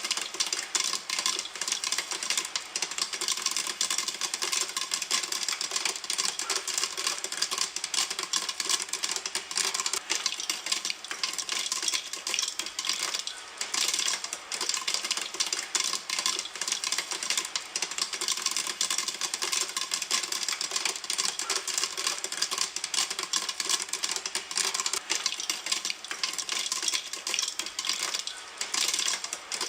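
Popcorn popping in a pan: a dense, continuous crackle of many small pops.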